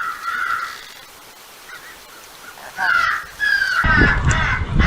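Crows cawing, a few harsh calls in a row. From about four seconds in, a heavy wind rumble on the microphone comes in under them.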